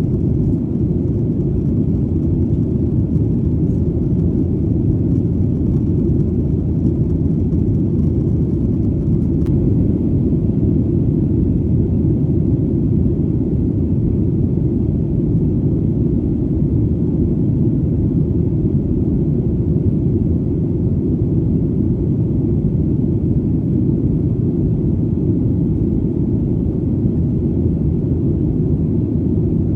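Steady, deep rumble of an airplane in flight, engine and air noise blended into one even drone that holds the same level throughout.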